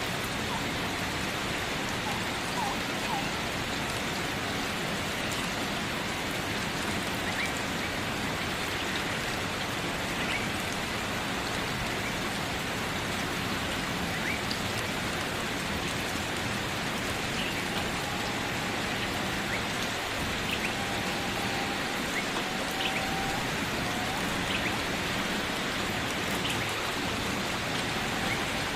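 Steady rain falling, an even hiss, with faint short high chirps here and there.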